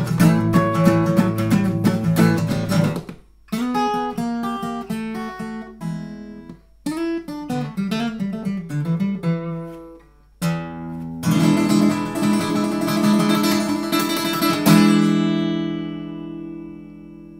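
Instrumental song ending on acoustic guitar: strumming, then picked single-note runs broken by short pauses, then strumming again up to a final chord that rings out and fades.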